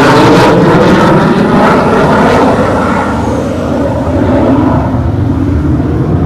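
Northrop F-5 Tiger III fighter's twin J85 turbojets passing by, a loud rushing jet noise that sweeps down in pitch and then eases and turns duller as the jet moves away after about three seconds.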